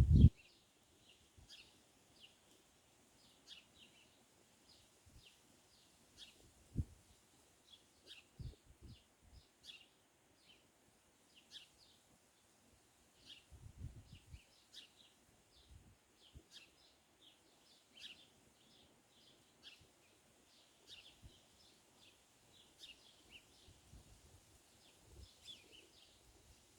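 Small birds chirping in short, high calls, repeated irregularly and fairly quietly throughout. A few soft low thumps break in, the loudest about a third of the way in.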